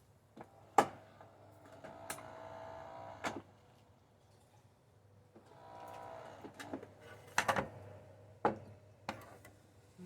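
Small motor inside a Saeco Pico Baristo espresso machine whirring briefly twice, about a second each time, with several sharp clicks and knocks around it.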